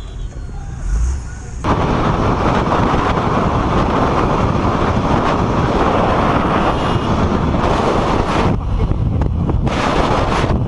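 Wind rushing over the microphone of a moving motorcycle. It starts abruptly at a cut about two seconds in and stays loud and steady, drowning out any engine note.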